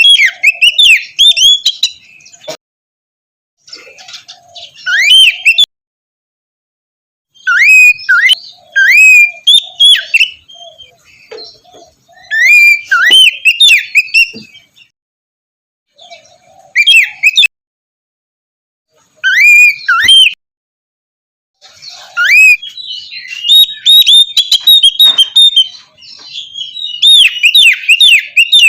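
Oriental magpie-robin (kacer) singing in loud phrases of rising whistled notes, each phrase a second or two long with short silent pauses between them. Near the end the song turns into a long, fast run of repeated notes.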